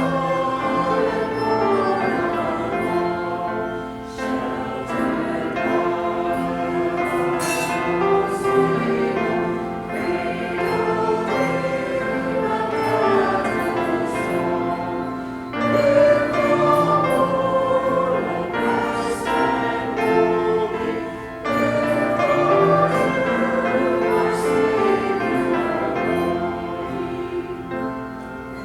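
Church choir singing in several parts, with brief breaks between phrases about four, fifteen and twenty-one seconds in.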